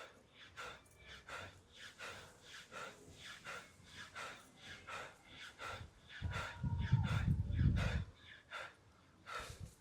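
A man breathing hard and fast from exertion during a bodyweight workout, with short sharp breaths about twice a second. About six seconds in, a low rumbling noise lasts about two seconds and is the loudest thing.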